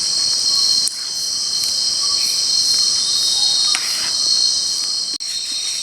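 Loud, steady chorus of night insects such as crickets, a dense high-pitched shrilling, with a brief dip about a second in and a sharper break near the end.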